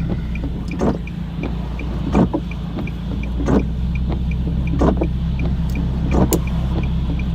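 Nissan 370Z's 3.7-litre V6 with a muffler-delete exhaust droning steadily at light throttle, heard from inside the cabin. A quick, regular ticking about two and a half times a second and a soft thump about every second and a third run alongside it.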